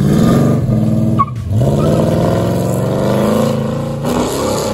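A car engine accelerating: its pitch climbs, breaks off sharply about a second in, then climbs again and rises once more near the end.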